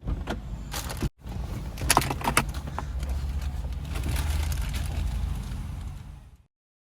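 Steady low rumble of car cabin noise, with a few sharp clicks about two seconds in, fading out near the end.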